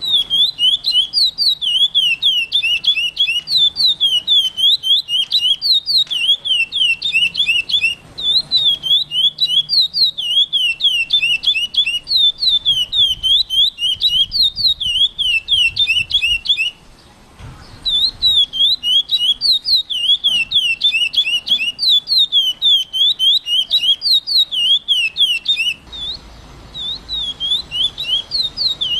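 Curió (chestnut-bellied seed-finch) singing loud and close: a fast, unbroken string of short sweeping chirps, several a second. The song pauses for about a second just past the middle, with shorter breaks before and after.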